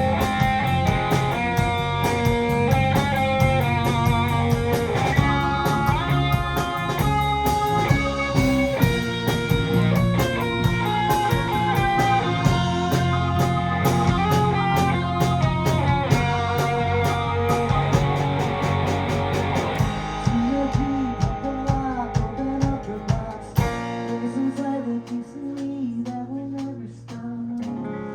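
A live rock band plays loudly: electric guitar, bass, drums and keyboards. About twenty seconds in the playing thins out. Near the end the drums and bass drop away, leaving guitar and keys ringing as the song winds down.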